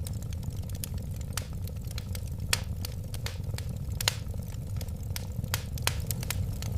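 Wood fire burning: a steady low rumble of flames with sharp, irregular crackles and pops, several a second.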